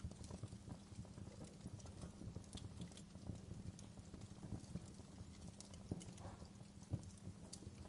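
Wood fire burning in a fireplace: a steady low crackle with scattered sharp snaps and pops, two of them stronger, around six and seven seconds in.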